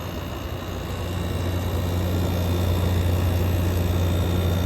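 GE air conditioner running in cool mode: a steady low compressor hum under fan noise and a faint high whine, growing louder over the first couple of seconds. The compressor is sweating cold, a sign that it is cooling properly.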